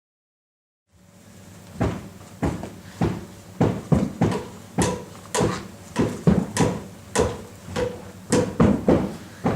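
Feet stamping and stepping on a floor in group improvisation: a run of heavy thuds at roughly two a second, starting about two seconds in after a brief silence and growing more frequent.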